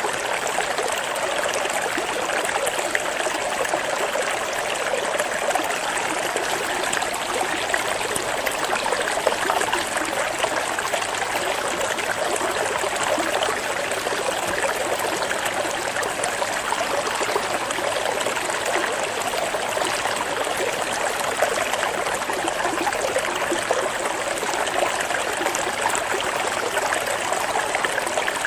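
Flowing stream water, a steady trickling and splashing rush.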